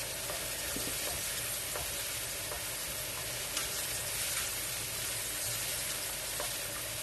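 Chicken, mushrooms, garlic and onion sizzling together in a hot frying pan: a steady frying hiss with a few faint clicks.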